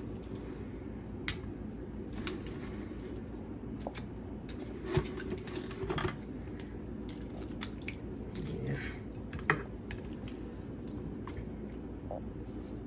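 Raw washed chicken pieces being put into a bowl by hand: scattered wet squishes and a few light knocks and clinks against the bowl.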